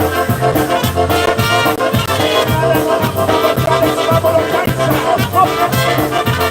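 Live polka band playing, with brass carrying the melody over a steady bass-and-drum beat.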